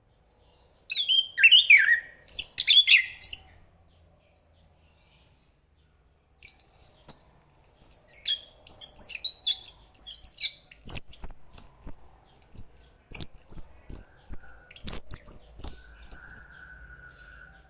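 Chestnut-capped thrush singing: a short phrase of falling whistled notes, a pause of about three seconds, then a long, rapid run of varied high notes lasting about ten seconds.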